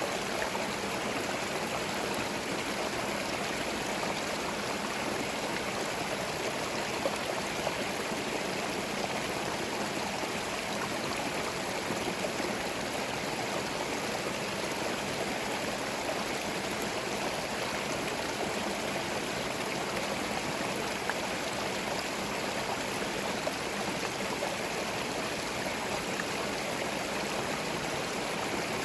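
Small forest stream running steadily over stones, a continuous babbling and gurgling of water with small trickles.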